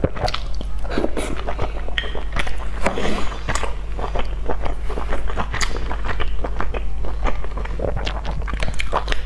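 Close-miked chewing and wet mouth sounds of boiled dumplings being eaten, with many short clicks of chopsticks against the ceramic bowl. A steady low hum runs underneath.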